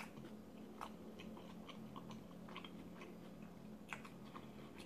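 A person chewing food with the mouth closed, faint, with small clicks of the mouth every so often.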